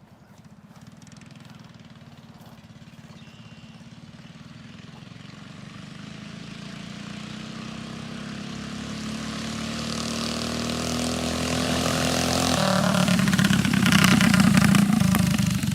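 Mini bike's 212cc Predator single-cylinder four-stroke engine with a 22mm Mikuni carburetor, running and growing steadily louder as the bike approaches. Its pitch shifts about twelve seconds in, and it is loudest around fourteen seconds in, just before it starts to fade.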